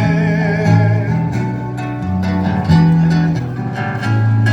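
Hawaiian song played on strummed acoustic guitar over a walking bass line, in an instrumental passage with no singing.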